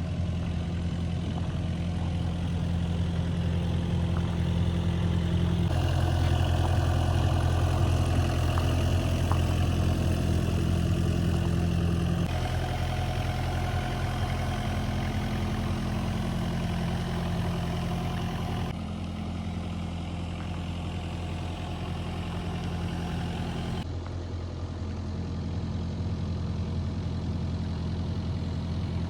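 Diesel engine of a 2004 Kubota KX61-3 mini excavator running steadily at idle. The sound changes abruptly about four times, a little louder around the first third.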